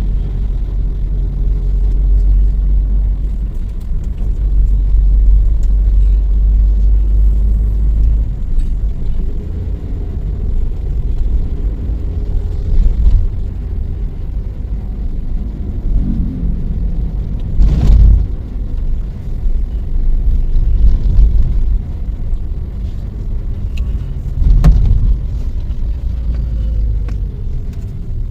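Car driving slowly, heard from inside the cabin: a low engine and road rumble. The engine hum is steadier for the first several seconds, then eases off as the car creeps along, with two louder bumps later on.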